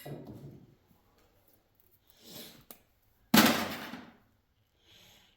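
Handling noises as Romex cable is worked through a small wire stripper: a few brief rustles and scrapes, with a sudden louder one a little past three seconds in.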